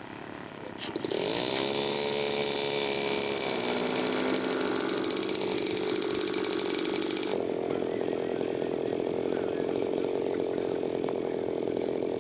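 Radio-controlled model airplane engine running in flight. Its note rises and then falls over the first few seconds as the plane goes around for a touch-and-go, then holds as a steady drone.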